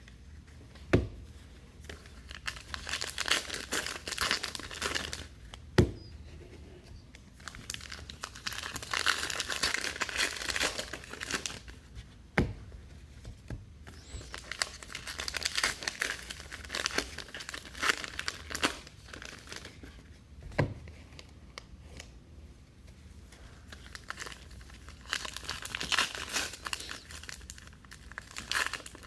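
Trading card pack wrappers being torn open and crinkled by hand, in several stretches of a few seconds each, with a few sharp knocks in between.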